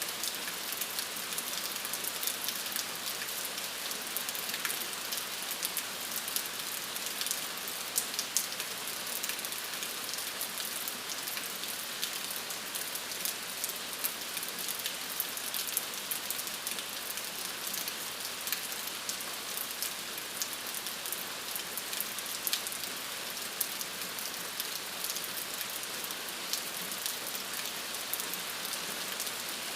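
Steady rain falling on a surface: a dense even hiss with many individual drops ticking through it.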